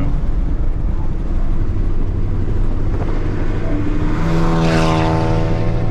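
Straight-piped Ford Focus ST (2.0 turbo four, muffler and resonator deleted) doing a flyby: its exhaust note swells about four seconds in, is loudest near the end and drops in pitch as it passes, over a steady low rumble.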